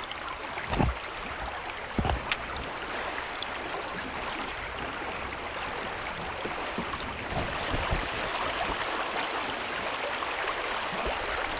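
Steady rush of flowing river water, a little louder in the second half, with two short knocks about one and two seconds in.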